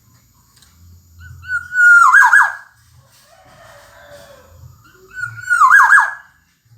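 Black-naped oriole calling twice, the calls about four seconds apart. Each is a loud whistled note that slides, then breaks into a few quick falling notes.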